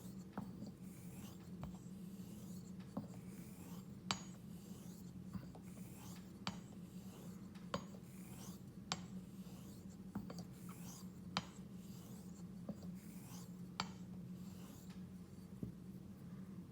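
Straight razor being honed on a water stone: a run of soft swishing strokes across the stone, with a sharp click about every second and a bit as the blade is turned over on its spine.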